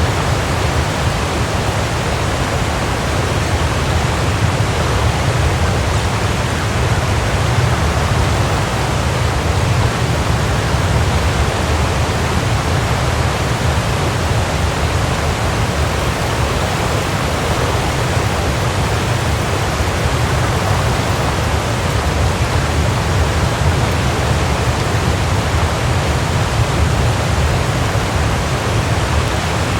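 Waterfall: water falling and crashing in a steady, unbroken rush, heaviest in the low end.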